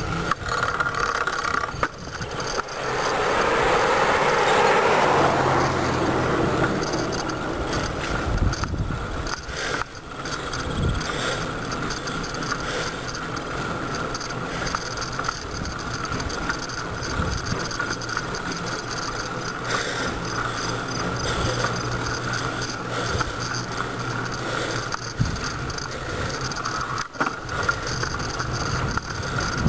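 Bicycle being ridden on a road, with drivetrain ticking and steady rolling noise. A louder rushing noise swells about three seconds in and fades by about six seconds.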